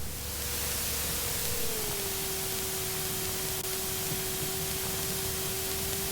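Steady hiss of the aircraft's headset intercom feed, with a faint hum from the Remos GX light sport aircraft's engine underneath. The hum drops in pitch about one and a half seconds in as the engine slows, then holds steady.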